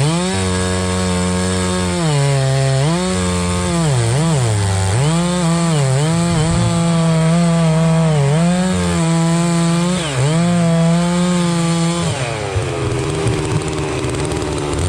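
Holzfforma two-stroke chainsaw at high revs cutting wood, its engine pitch dipping and climbing back again and again as the chain loads up in the cut and clears. The revs fall away about twelve seconds in.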